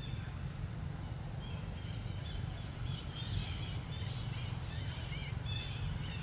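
Small birds chirping in short, repeated calls, starting about a second and a half in, over a steady low rumble.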